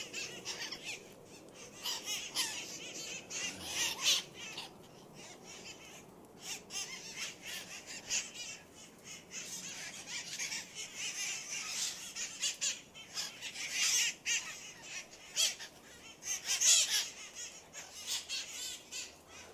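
A flock of parrots squawking and screeching, many short harsh calls overlapping one another, with louder squawks about 4, 14 and 17 seconds in.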